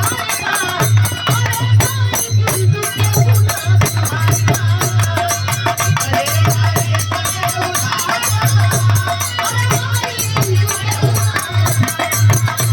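Instrumental interlude of Bhojpuri biraha folk music: a steady pulsing low drum beat with rattling percussion and a wavering melody line over it.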